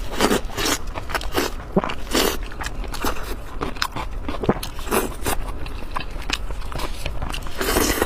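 Close-miked eating: a person biting and chewing food, with irregular short mouth clicks and bursts of chewing noise.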